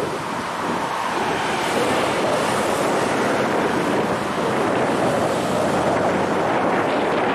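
Ocean surf washing onto the beach, with wind blowing across the microphone.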